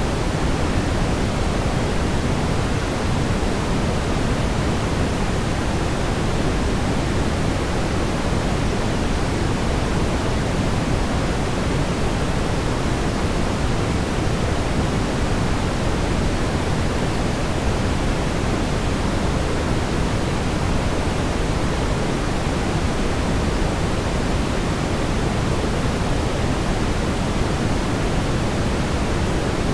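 Steady brown noise: an even, deep rumbling hiss weighted toward the low end, with no changes or events.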